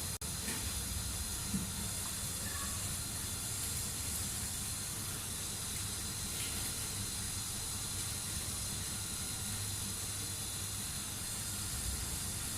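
Homemade fishing-rod repair machine running steadily, a small motor turning the rod while the freshly applied epoxy cures, heard as an even hiss over a low hum.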